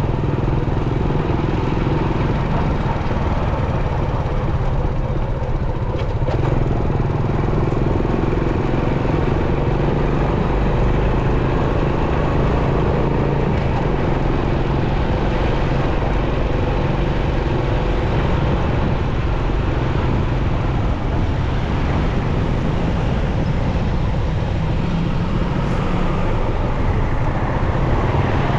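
Motorcycle engine running steadily while riding, with road and traffic noise around it.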